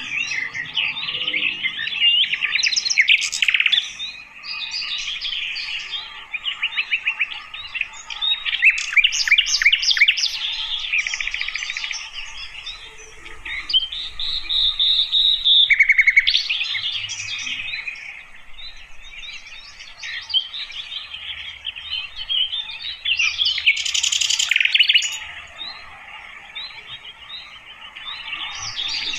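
Sikatan londo flycatcher singing: a dense run of quick chirps, trills and short whistles, with one longer held whistle about halfway through.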